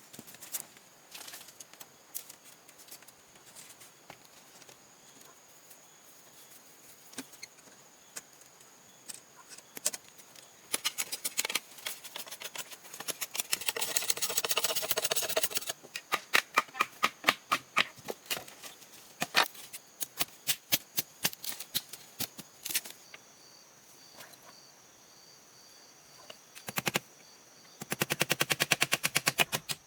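Sharp knocks in quick runs: scattered at first, then a dense rapid run about halfway, and a fast, very even string of strikes near the end.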